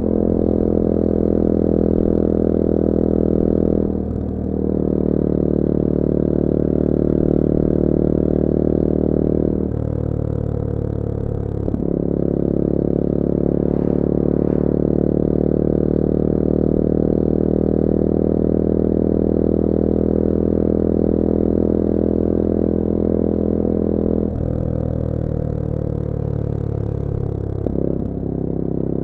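The CF Moto-engined 250cc four-stroke engine of a Bullit Hero 250 motorcycle running under way at steady revs. Several times the note dips and then picks up again as the throttle is eased and reopened, with a drop near the end as it rolls off.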